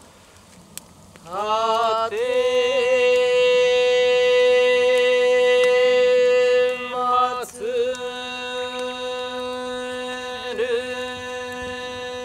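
A long chanted note in a ritual chant, sliding up into pitch about a second in and held steady for several seconds. It breaks off briefly, then carries on more softly over a lower held tone, with a short wavering near the end.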